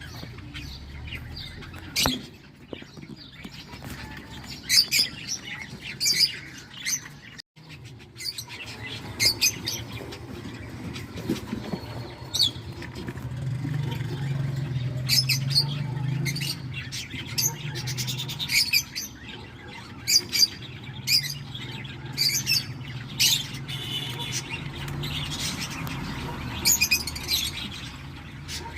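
Cockatiel chicks chirping in the nest box: many short, high chirps, often in quick clusters, over a low hum. The sound drops out briefly about a third of the way through.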